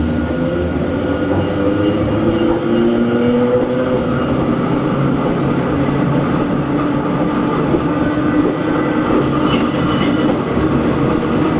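Running sound aboard a Hakone Tozan Railway Moha 1 electric railcar: its nose-suspended SE121-A traction motors and gears whine over a steady rumble of wheels on rail. The whine shifts in pitch over the first few seconds, then sinks into the rumble.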